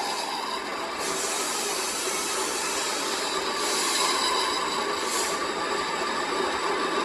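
Steady noise of a workshop machine or power tool working metal, with no clear rhythm. Two brief brighter hissing swells come about halfway and about three-quarters of the way in.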